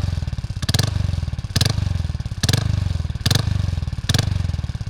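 Honda Wave 110i's single-cylinder four-stroke engine with an aftermarket exhaust, idling and blipped in six short revs a little under a second apart. The exhaust note is described as strange.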